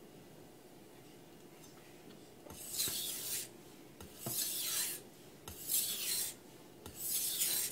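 Carbon steel knife blade stroked across a wet 1000-grit sharpening stone, four strokes each under a second, starting about two and a half seconds in.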